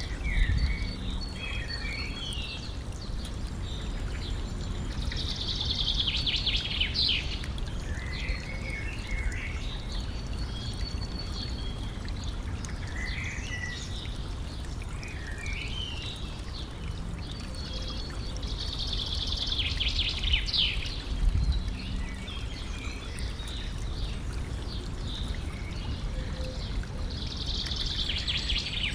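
Stream trickling steadily, with birds singing over it: many short chirps and three louder, buzzy trills spread through.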